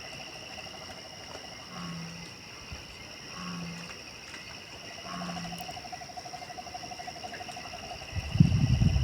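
Night insect chorus: a steady high shrilling and a lower pulsing trill, with three short low animal calls about a second and a half apart. A loud low rumble comes near the end.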